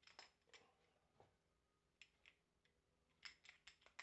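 Near silence with faint, scattered clicks and light taps of small starter-motor parts being handled on a workbench, a quick run of them near the end.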